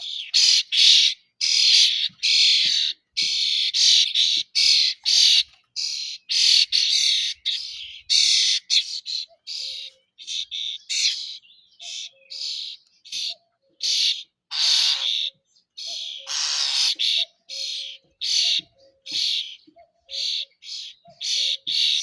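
Common starling singing: a long, rambling string of short chirps, rasps and whistles, one after another with brief gaps.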